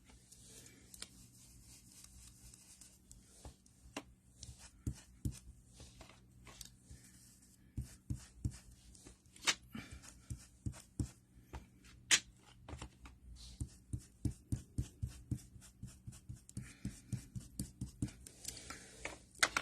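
Light, irregular taps and clicks of hands working stamping supplies on a craft table, sparse at first and growing busier about halfway through.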